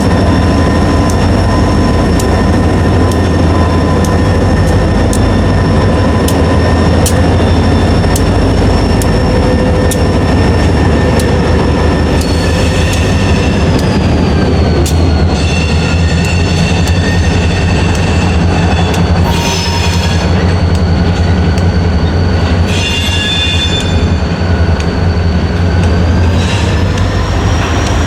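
A train rolling through a grade crossing: a steady heavy rumble of wheels on rail, with high squealing tones from the wheels that waver and glide in pitch over the second half. Regular sharp strikes of the crossing signal bells ring over it in the first half.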